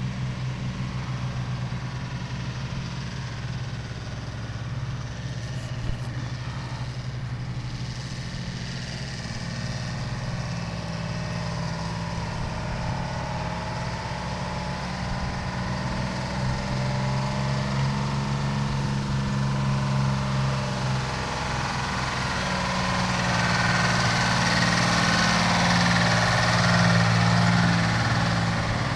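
Engine of a 1979 IHC 2600 truck running at a steady idle. A rushing hiss builds over it in the second half and is loudest near the end.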